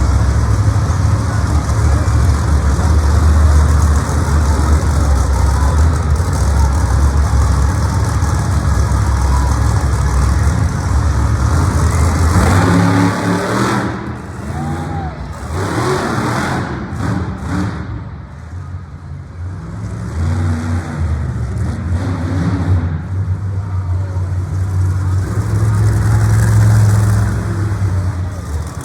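Monster truck engine running hard with a heavy low rumble, then revving with its pitch swinging up and down around the middle before building to full power again near the end.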